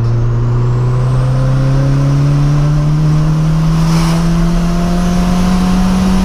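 Turbocharged 1996 VW Gol engine pulling hard in third gear, its note climbing steadily as the revs rise, heard from inside the cabin. Under it the gearbox growls, which the owner puts down to wear in the ring and pinion and the internal gears.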